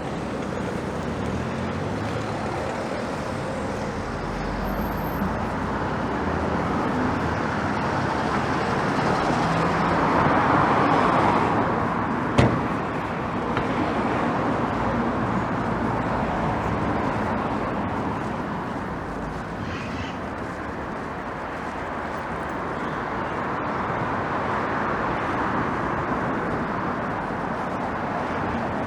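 City street traffic noise, with cars passing: it swells about ten seconds in and again near the end. One sharp knock comes about twelve seconds in.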